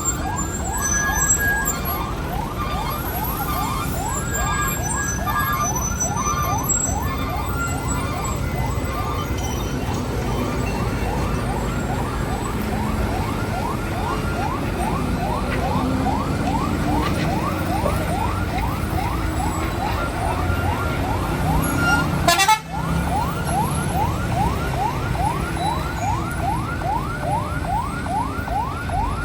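Emergency-vehicle siren on a fast yelp, a rising wail repeating about three times a second without a break, over the low rumble of idling vehicle engines. A single sharp knock about 22 seconds in.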